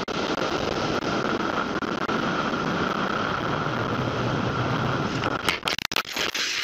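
Steady road and engine noise inside a moving car, as a dashcam records it, with a few sharp knocks about five and a half to six seconds in.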